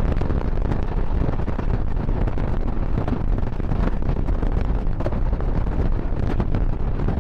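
Moving passenger train: a steady rumble of wheels on the rails with wind buffeting the action camera's microphone, and scattered faint clicks.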